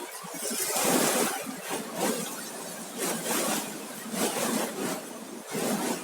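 Sea waves breaking and washing up the beach: a wide hiss that swells and eases in several surges, loudest about a second in.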